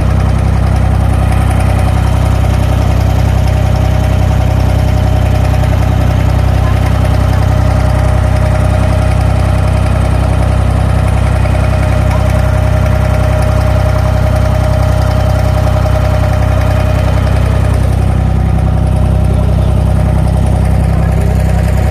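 Diesel engine of an abra water taxi running steadily: a deep, even engine drone with a thin whine above it that fades out near the end.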